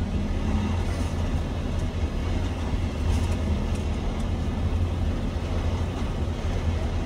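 A tractor-trailer's diesel engine runs steadily at low speed, a constant low rumble.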